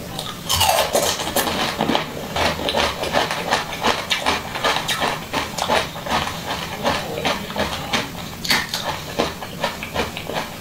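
Close-miked biting and chewing of a bead-studded jelly ring candy: a dense, irregular run of sharp wet clicks and squelches, with a few louder bites near the start and again after about eight seconds.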